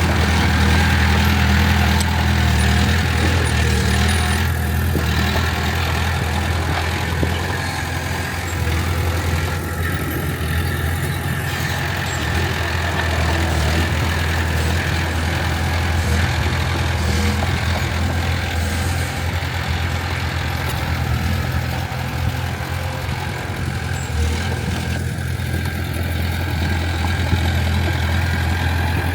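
Diesel engine of heavy earthmoving machinery running steadily at a low, even hum, without clear revving.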